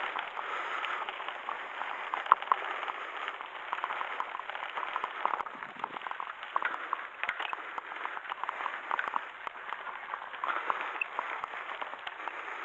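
Bicycle rolling along a dirt forest path: a steady crunch of tyres on the ground, with many small clicks and rattles from the bike.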